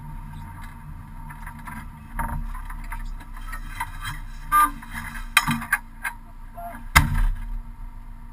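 Rally car engine idling steadily inside the stripped cabin, with scattered clunks and knocks of harness and body movement, and one loud sharp thump about seven seconds in.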